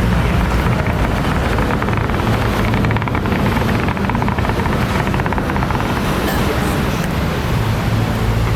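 A long string of firecrackers going off in a dense, continuous rapid crackle with a heavy low rumble underneath.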